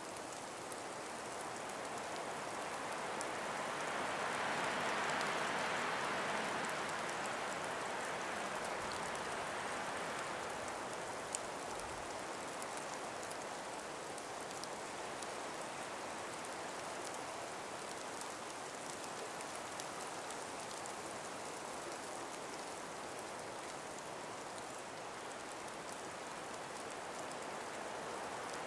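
Light breeze through an ice- and snow-laden forest, a steady hiss that swells in a gust a few seconds in and then eases back. Faint scattered ticks and one brief click sound over it.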